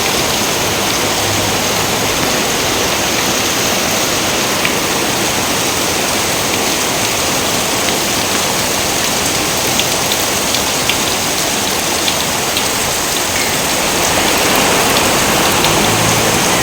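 Steady heavy rain, an even hiss with a few sharper drop ticks, growing a little louder near the end.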